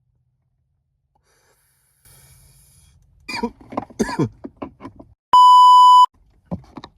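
A single steady beep lasting under a second, the standard censor bleep tone, cutting in among a few short vocal sounds.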